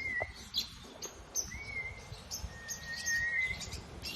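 Parrots calling: many short high chirps mixed with a few longer, steady whistled notes.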